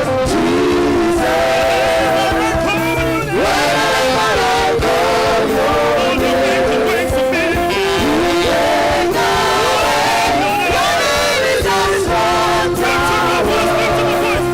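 Worship singing with instrumental accompaniment: a congregational praise song to Jesus, the melody held in long notes over a steady band backing.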